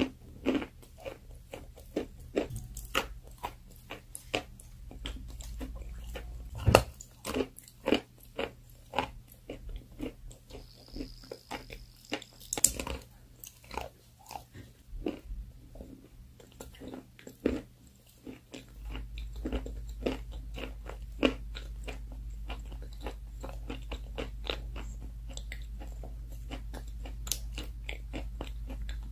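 Close-miked crunching and chewing of food in a person's mouth: many short crisp crunches in quick, irregular succession. A low steady hum gets louder about two-thirds of the way through.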